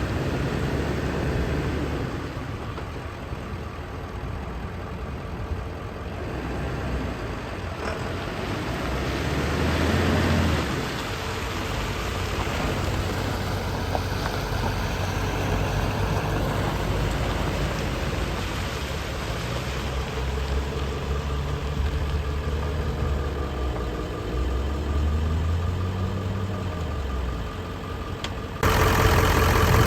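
Ford 7.3-litre Power Stroke V8 turbo-diesel running, its engine speed rising and falling several times. Near the end it becomes suddenly louder and fuller.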